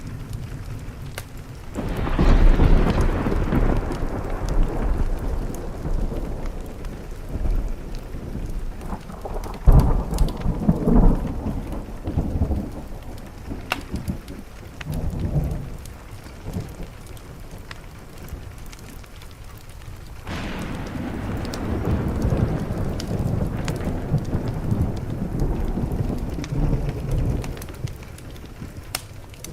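Thunder rolling over steady rain: a long rumble builds about two seconds in, a sharper crack with more rumbling comes around ten seconds, and another long roll begins about twenty seconds in and fades near the end.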